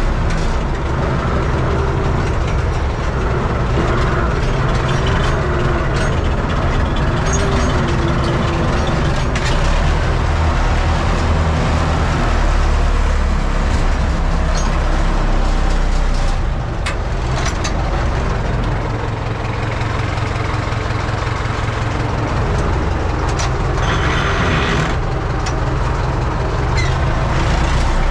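UTB Universal 650 tractor's diesel engine running steadily, with scattered clanks and rattles from the tractor and its mounted cultivator.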